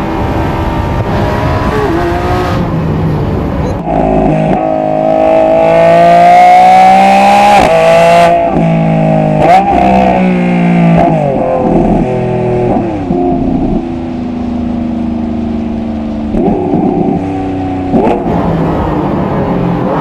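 Lamborghini Revuelto's hybrid V12 running through a stainless QuickSilver 'SuperSonic' cat-back exhaust, pulling hard. About four seconds in the pitch climbs steadily for several seconds, then drops sharply at a gear change; it rises and drops again just before ten seconds, settles into a steadier lower tone, and picks up again near the end.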